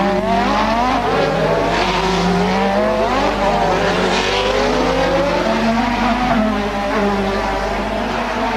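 Several 1980s Formula One race cars running close together. Their engines overlap, each one rising in pitch as it accelerates, then dropping back on an upshift or for braking, again and again.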